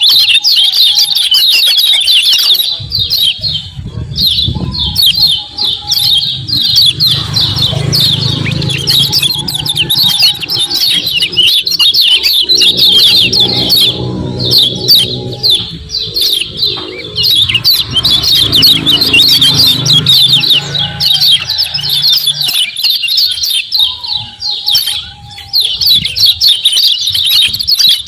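Kecial kuning (a white-eye) calling in a fast, continuous chatter of sharp high 'ciak ciak' chirps. It breaks off briefly a few times.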